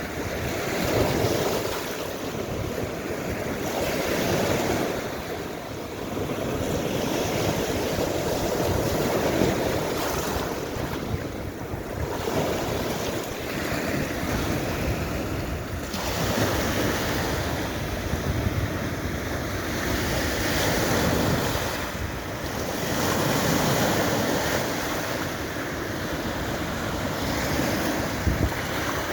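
Baltic Sea waves washing onto the shore, swelling and falling back every few seconds, with wind buffeting the microphone.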